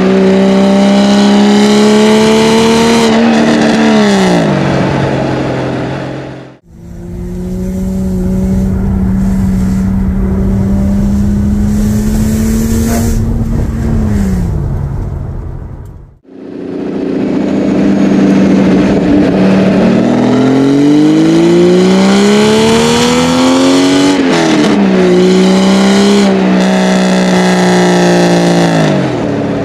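Air-cooled flat-six of an RWB Porsche 964 on full song. It holds steady high revs, climbs under acceleration in the second half, and falls away each time the throttle is lifted. The sound cuts out briefly twice at edits, and in the middle stretch it is heard muffled from inside the cabin.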